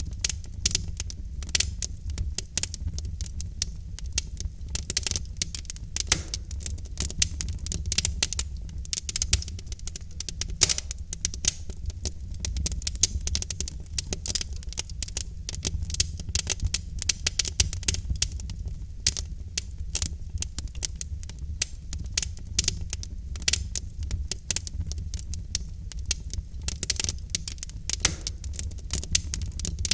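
Wood fire crackling in a fireplace: logs burning with dense, irregular sharp pops and snaps over a steady low rumble of the flames.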